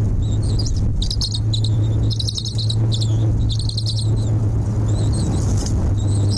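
High-pitched chirping in repeated short bursts over a loud, steady low hum.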